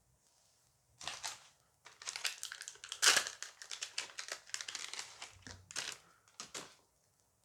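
Booster pack wrapper crinkling as it is handled and torn open by hand. A dense run of crackles starts about a second in and stops shortly before the end.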